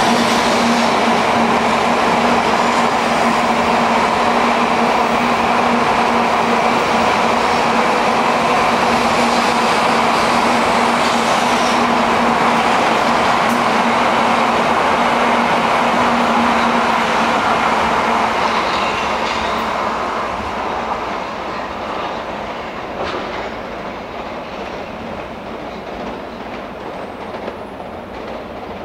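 N700-series Shinkansen trains rolling along station tracks as they pull in to stop, a steady running noise with a constant hum that stops about seventeen seconds in. The noise then fades gradually toward the end.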